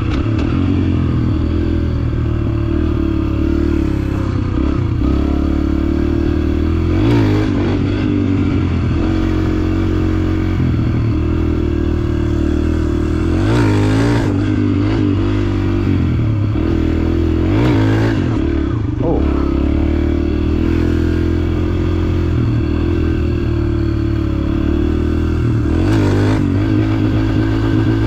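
Dirt bike engine running under the rider, its pitch rising and falling with the throttle, with occasional clatter from the bike over rough ground.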